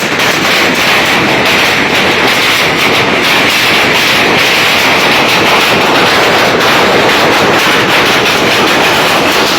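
Hailstones pelting down in a heavy hailstorm: a loud, steady clatter of countless rapid impacts.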